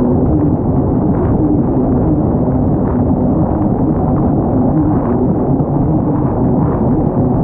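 Kawasaki STX 160 jet ski's four-cylinder four-stroke engine running hard at a steady pitch, with rushing wind and water noise.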